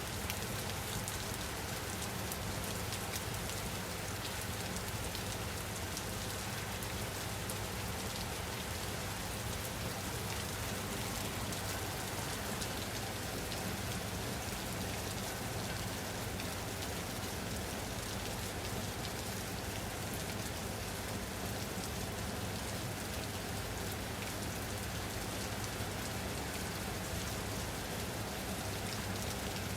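Steady rain falling on a surface, a continuous even hiss with many fine drop patters.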